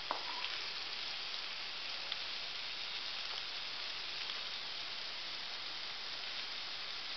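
Pieces of besan-coated colocasia-leaf roll sizzling steadily in hot oil in an aluminium kadai, with a few faint clicks of a metal spatula turning them.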